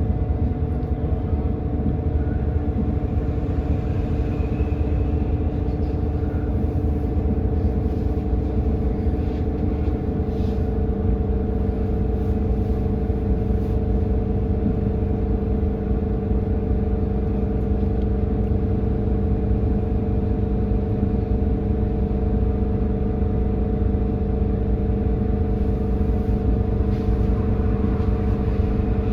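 Edison Motors Smart 110G CNG city bus's GX12P natural-gas engine running at a steady speed under way, heard from inside the cabin as a low rumble with a constant droning hum.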